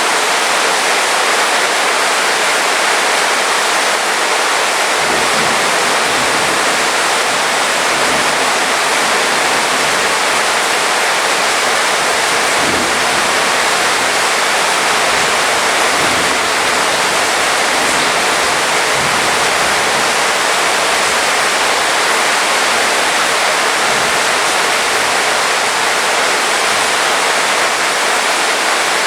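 Heavy rain falling in a steady, dense hiss, with a faint low rumble coming and going in the middle stretch.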